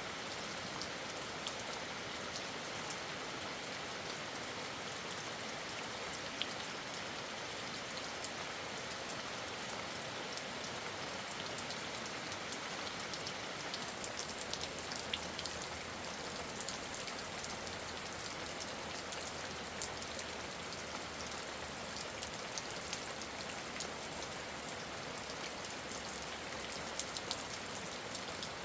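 Steady rain falling, an even hiss scattered with the small ticks of individual drops hitting a surface.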